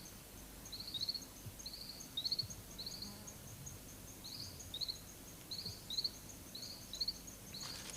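Faint tropical rainforest ambience: an animal gives short high chirps, mostly in pairs, about once a second, over a steady, faster, fainter high ticking.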